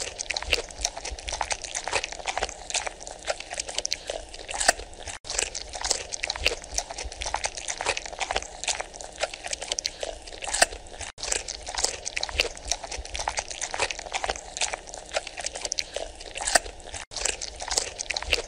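Giant panda chewing bamboo: a dense run of sharp cracks and crunches, several a second, as it bites and splinters the stalk.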